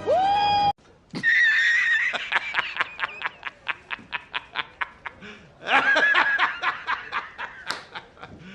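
High-pitched, squeaky laughter as a rapid run of snickers, about eight a second, fading out, with a second burst near the end. It is preceded by a short tone that rises in pitch.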